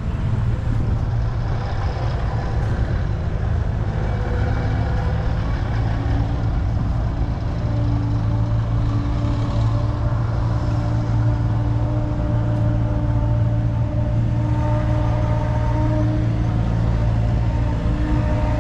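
An engine running steadily with a constant low hum, with no change in speed.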